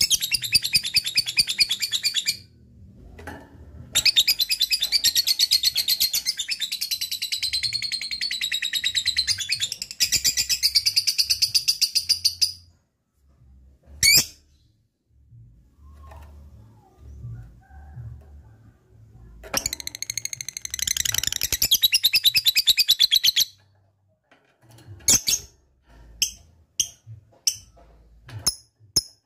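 Lovebird chattering its long 'ngekek' song: runs of rapid, high-pitched chattering trills lasting several seconds, broken by pauses with a single sharp chirp in between and a few short, separate calls near the end.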